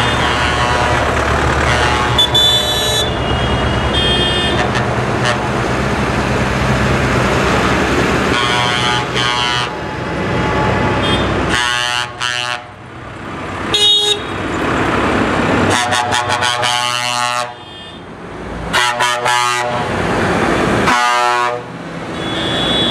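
Tractors driving past with engines running, their horns tooting again and again in short blasts of a second or two.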